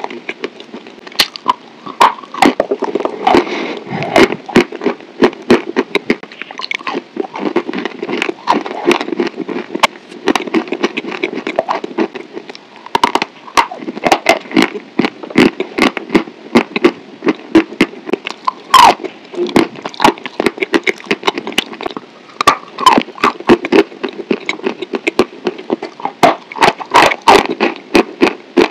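Close-miked mouth sounds of someone chewing food, with many sharp crackling clicks packed closely together in clusters.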